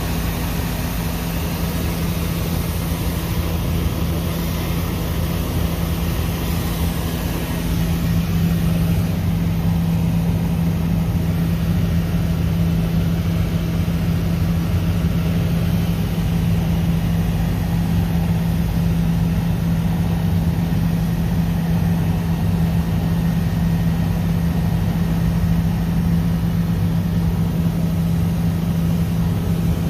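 Helicopter in flight: a steady drone of engine and rotor with a strong constant hum over a dense rushing noise, growing slightly louder about eight seconds in.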